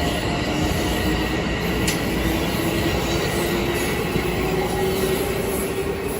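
Metro-North commuter train rolling into the station: steady rumble of wheels on rail with thin, high squealing tones from the wheels, and a single sharp click about two seconds in.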